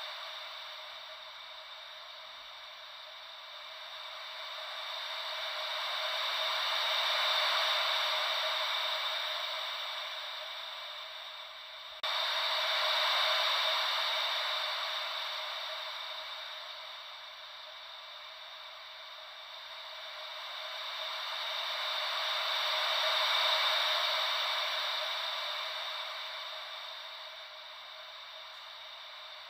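Ocean-wave white noise: a thin, even hiss with no low rumble that slowly swells and fades in long waves. About twelve seconds in, the level jumps suddenly.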